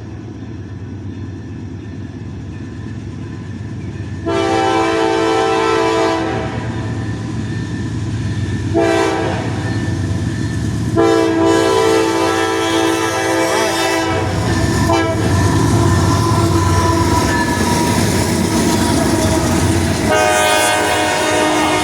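Norfolk Southern diesel locomotive horn sounding a long blast, a short one and a longer one, the close of a grade-crossing signal. After that the freight train rumbles past with wheels clacking over the rail joints, and a higher-pitched horn chord sounds near the end.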